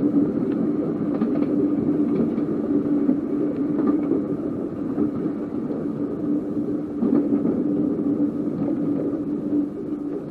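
Seaton Tramway narrow-gauge electric tram running along its track: a steady rumble with a constant hum through it and a few faint clicks.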